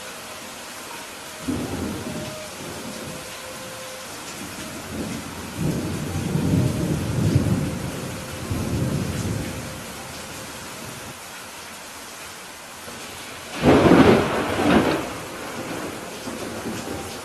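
Steady rain with rolling thunder: low rumbles swell about a second and a half in and again from about five to ten seconds. Near the end comes a louder, sharper thunderclap.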